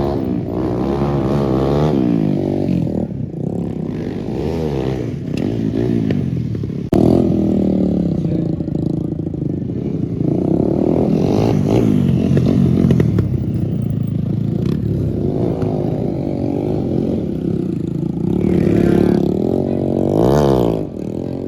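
Motorcycle engine revving, its pitch climbing and dropping again and again, with an abrupt jump in sound about seven seconds in.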